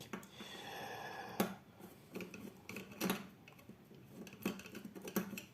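Small metal sewing-machine parts being handled: scattered light clicks and clinks as the needle plate and feed dog are taken off, after a soft hiss at the start.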